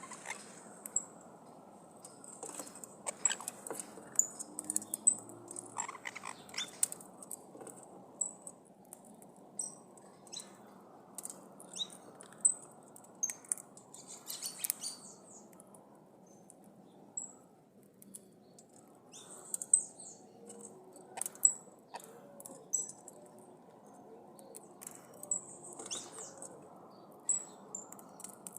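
Birds calling: many short, high chirps scattered throughout, with a few louder, harsher calls, over a steady low background noise.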